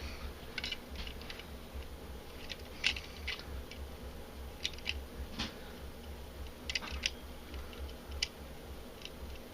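Small plastic LEGO pieces and a minifigure clicking and tapping irregularly as they are handled and pushed into a car seat, over a low steady hum.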